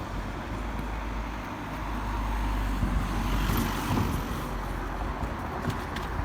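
Steady rumble of road traffic, swelling gently about two to four seconds in.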